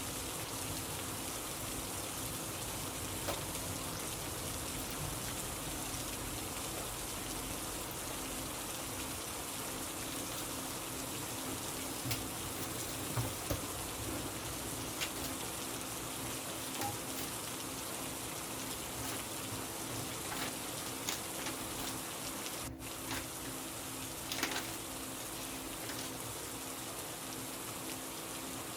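Steady rain falling, with a faint low hum underneath and a few scattered small clicks.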